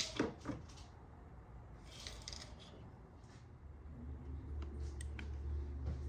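Light clicks and rattles of parts being handled, followed by a low steady hum that swells in about four seconds in.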